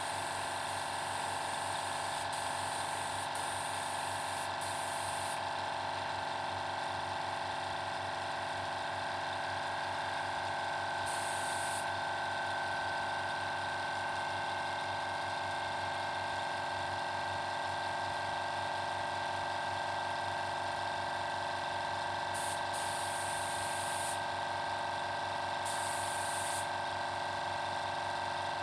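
Air compressor running steadily, with short bursts of hiss from a spray gun being triggered several times while spraying a finish coat.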